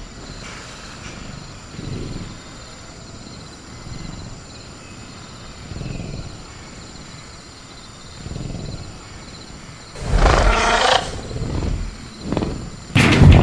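Sound-effect velociraptor in a cage: soft low sounds every couple of seconds, then a loud growling roar about ten seconds in, a few shorter sounds after it, and another loud call starting near the end. A steady high chirr of crickets sits under it throughout.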